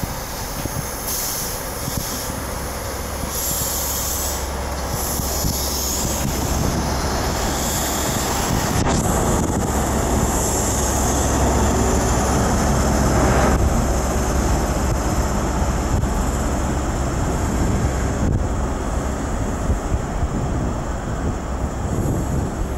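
InterCity 125 (HST) train rolling slowly past: coach wheels running over the rails, with high-pitched squealing in the first several seconds, under a steady low diesel engine hum. The sound is loudest about thirteen seconds in, as the rear power car goes by, then eases off as the train draws away.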